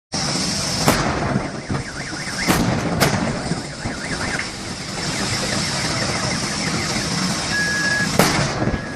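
Burning car: a steady roar of fire with four sharp pops, and a wavering alarm-like tone during the first half.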